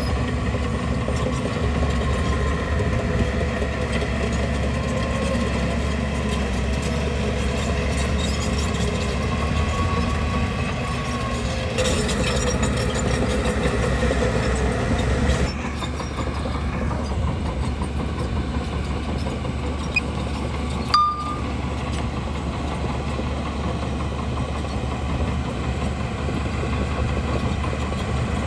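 Bulldozer's diesel engine running steadily as it works, with one short, sharp knock about three-quarters of the way through.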